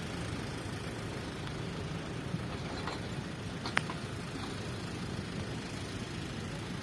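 Heavy vehicle's diesel engine idling with a steady low hum. A faint sharp click comes a little under four seconds in.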